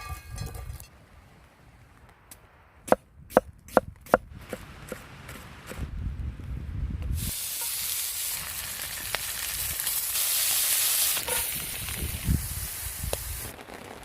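A quick run of sharp knocks, then food sizzling loudly in hot oil for about six seconds before it cuts off suddenly.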